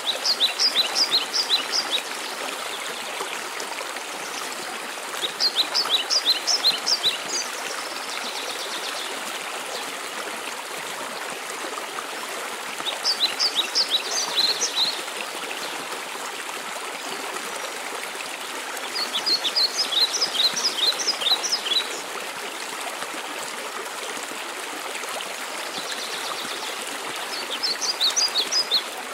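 Steady rushing water of a waterfall, with a songbird singing a short phrase of quick high notes five times, about every six or seven seconds. The song bouts stand out above the water.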